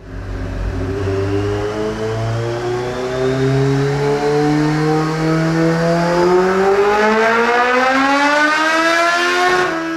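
Kawasaki GPZ750R's inline-four, bored out to 1039 cc and breathing through a Nojima titanium exhaust, pulled at full throttle on a chassis dyno: the revs climb smoothly and steadily through one gear, then drop sharply near the end as the throttle is shut.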